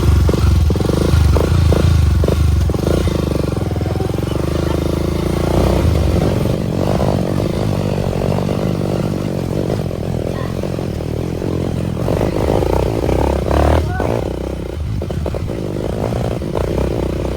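Motorcycle engine running with its revs rising and falling, along with some rattling and knocks.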